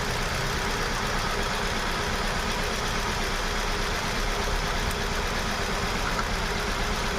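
Hyundai Venue's four-cylinder petrol engine idling steadily with an unstable, misfiring idle: cylinder 1 is dead because its injector gets no supply from a faulty ECM.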